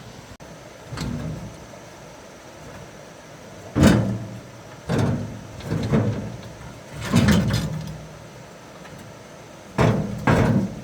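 A series of about seven heavy bangs and thuds at uneven intervals, the loudest about four seconds in and two close together near the end.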